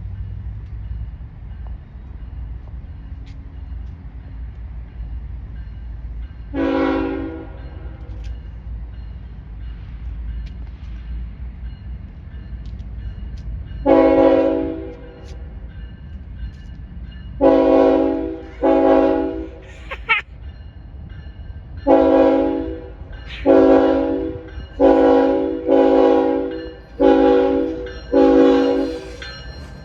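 Locomotive air horn sounding about ten blasts in a horn show: a single blast, a longer one, then quick rhythmic runs of short blasts toward the end. A steady low rumble runs underneath.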